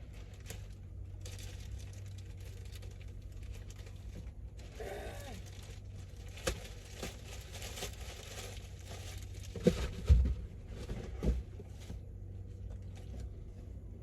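Items and packaging being handled and opened inside a car: rustling and light knocks, a brief voice-like sound about five seconds in, and a few low thumps around ten and eleven seconds in.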